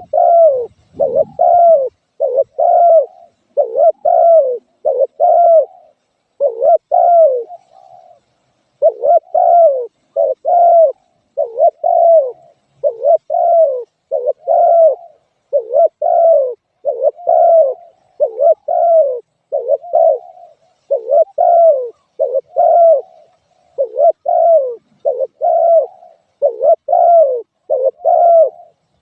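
Spotted dove cooing: a steady run of short, falling coos, about one a second, broken by brief pauses every few calls.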